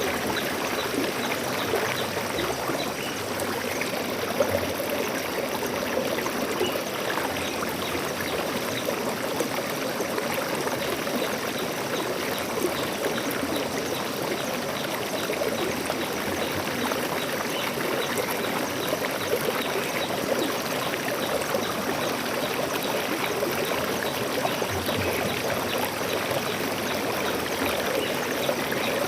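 Stream water flowing steadily, a continuous even rush with a light trickling texture.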